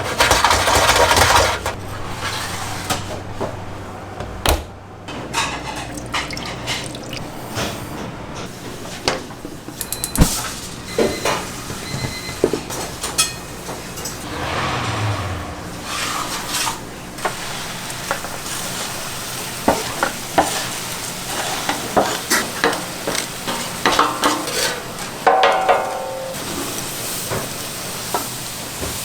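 Commercial kitchen sounds: food sizzling in a hot pan while metal utensils stir and knock against pots and pans, with frequent clinks and clatters and a louder hissing burst in the first couple of seconds.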